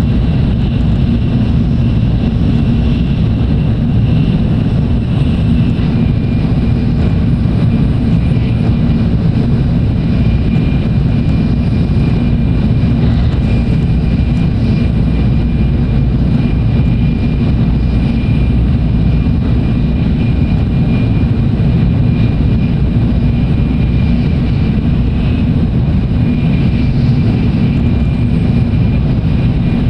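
Tokaido Shinkansen Nozomi train heard from inside the passenger cabin while running: a steady, dense low rumble with a thin steady whine above it.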